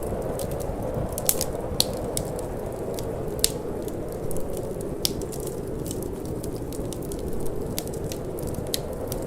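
Wood fire crackling, with irregular sharp pops and snaps over a steady low rushing of wind and flame.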